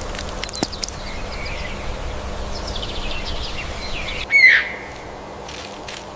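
Bird calls: quick runs of short high notes falling in pitch, then one loud, sharp call about four seconds in.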